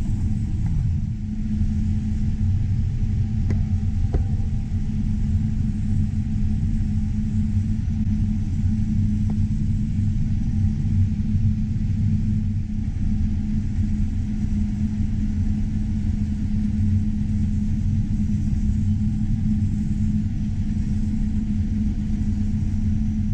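Heavy harvest machinery engine running at a steady speed: a constant low drone with a steady hum.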